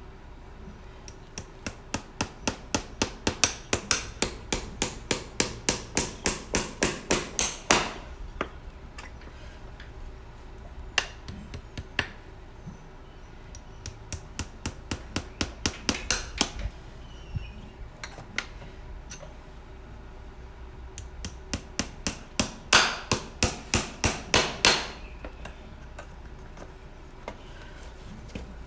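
Farrier's hammer driving horseshoe nails through a shoe into the hoof: runs of quick, evenly spaced taps, about four a second, each run building to a few harder blows, with short pauses between nails.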